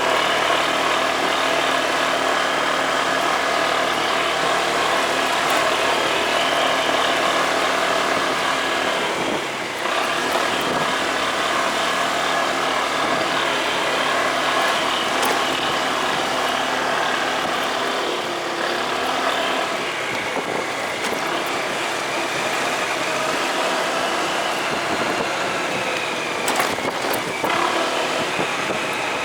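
Motorcycle engine running steadily under way, its note shifting about a third of the way in and again past the middle as the speed changes.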